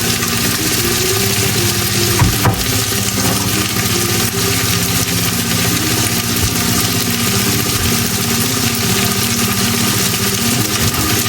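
Food sizzling as it fries in hot oil in a pan, under background music with a low melody that moves in steps.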